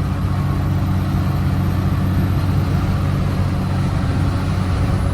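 Steady engine drone and wind and road noise inside a vehicle's cab while driving at a constant speed.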